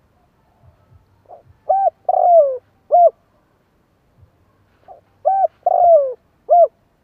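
Spotted dove cooing: two phrases of its call about three and a half seconds apart, each a soft lead-in, a short coo, a longer falling coo and a final short coo.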